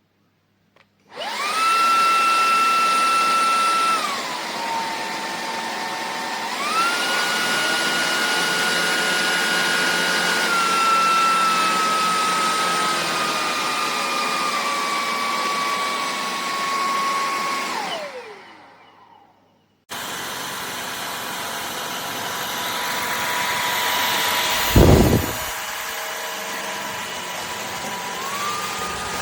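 Shark Detect Clean & Empty cordless stick vacuum running with a steady motor whine. The pitch drops for a couple of seconds and then steps back up, like a change of power level, drifts slowly lower, and winds down to a stop about three-quarters of the way through. A second steady machine noise then starts abruptly, with one short loud thump in it near the end.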